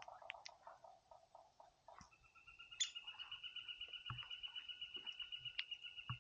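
A small bird singing a long, even, rapid trill on one high pitch, starting about two seconds in. Before it comes a lower, rapid chattering.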